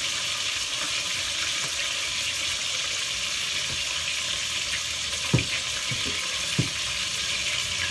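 Veal searing in a steel pot on a gas stove, a steady sizzle, with three soft knocks in the last few seconds as cling film is pulled off its roll and drawn over a bowl.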